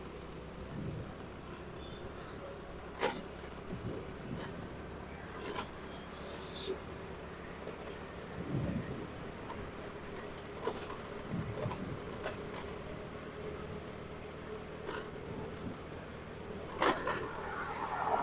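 Steady road and traffic noise while riding a motorcycle, with a faint steady hum and scattered short knocks. A louder sharp sound comes near the end.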